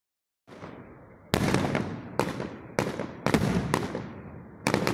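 Aerial fireworks shells bursting in a rapid series of sharp bangs, roughly one every half second from a little over a second in, each trailing off in an echo.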